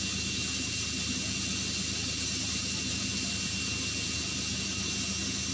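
UH-60 Black Hawk helicopters' turboshaft engines running on the ground before takeoff: a steady turbine noise with a thin high whine over a low rumble.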